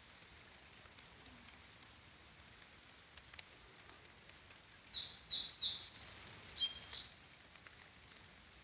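A songbird sings once, about five seconds in: three short clear notes followed by a fast high trill and a couple of closing notes. Under it is the faint steady patter of light rain.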